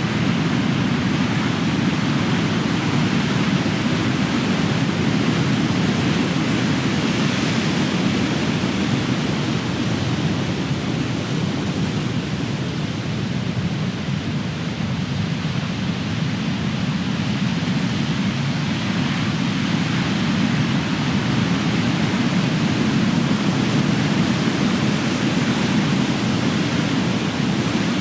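Big ocean waves crashing and washing on the shore in a continuous roar of surf that swells and eases slowly.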